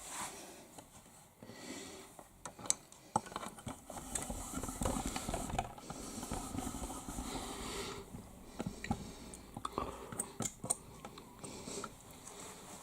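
Samsung washing machine running a Daily Wash 40 programme: the drum turning with irregular knocks and clicks over a swishing hiss, with a low rumble in the middle.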